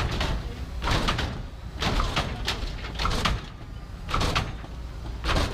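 Lowrider car hopping on its hydraulics: sharp clanks and thumps, about one a second, over a steady low rumble.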